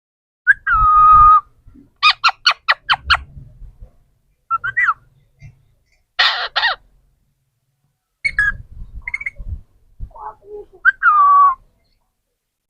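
Parrot calling in a string of separate vocalisations. A held pitched call about half a second in, then a rapid run of about six short notes, then a harsh screech around the middle. More short calls follow, and another held pitched call near the end.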